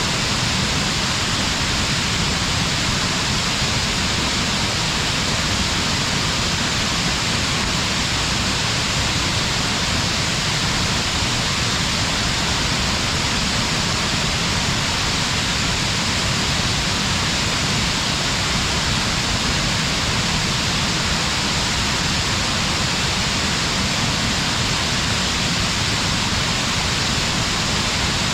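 Steady, unbroken rush of falling water from Fukiware Falls, a waterfall.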